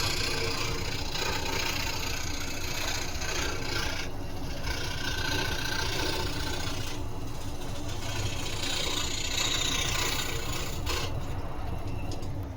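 Scroll saw running, its reciprocating blade cutting through wood with a steady rasping buzz that eases briefly twice and drops off at the end.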